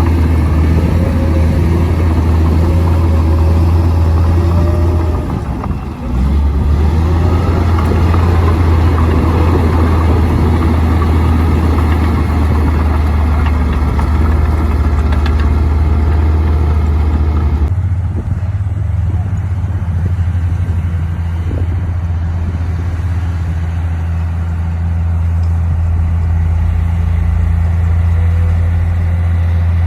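Komatsu D58P bulldozer's diesel engine running steadily with a deep hum. About six seconds in it dips briefly. Near eighteen seconds the sound changes abruptly, its higher clatter falling away to a smoother note.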